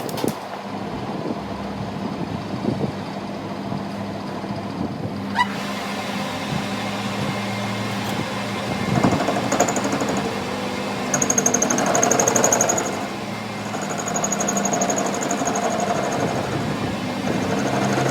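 Workshop machinery running with a steady hum, joined about halfway in by repeated bursts of rapid, high-pitched buzzing.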